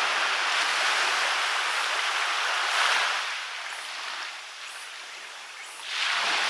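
Waves washing onto a beach: the hiss of one wave's wash fades away about halfway through, and the next wave breaks and rushes in near the end.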